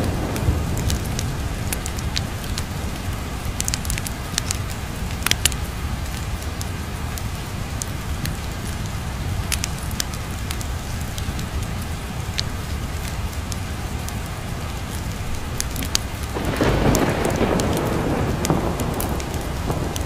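Steady rain with a continuous low rumble of thunder, dotted with scattered sharp crackles. About three-quarters of the way through, the rain or thunder swells louder for a few seconds.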